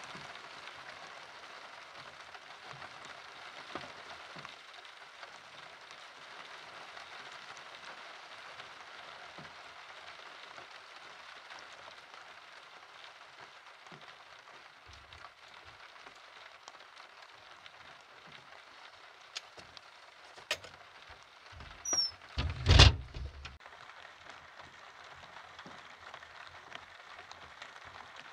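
Steady rain falling, with scattered drips and ticks. About twenty seconds in come a couple of sharp clicks, followed by a loud knock and thump.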